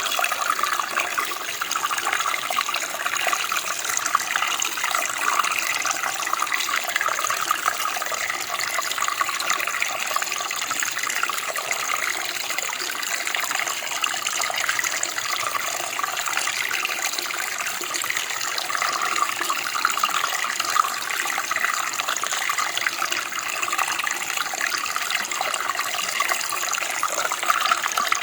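Steady running water, a stream or creek flowing over stones, an even hiss and splash with no change.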